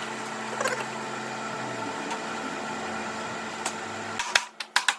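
A steady machine hum with a hiss, running evenly and then cutting off suddenly about four seconds in, followed by a few sharp knocks.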